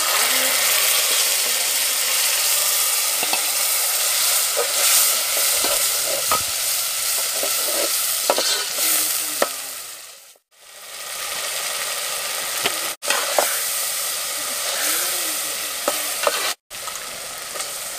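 Loud sizzling as liquid is poured into a pot of onions and green chillies frying in hot oil, starting suddenly. A slotted metal spoon stirs and scrapes the pot as the mixture keeps sizzling. The sizzle drops out briefly about three times in the second half.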